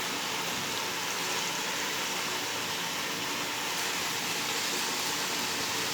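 Chicken and masala sizzling steadily in the biryani pot, a continuous even hiss, as the chicken cooks in the water it has let out.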